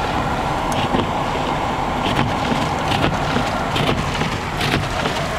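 Steady road and wind noise inside a moving car's cabin, driving through a blizzard, with a few short clicks scattered through it.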